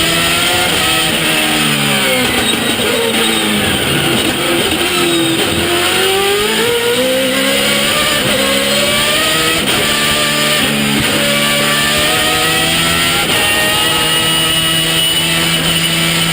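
Georg Plasa's Judd V8–engined BMW 134 race car at high revs with straight-cut gears. The engine note falls for about five seconds, then climbs again in several steps as it shifts up.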